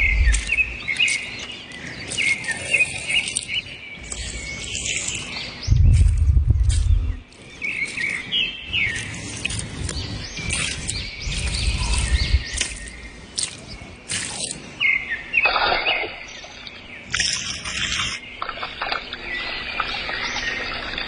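Birds chirping over and over, with a few short low rumbles.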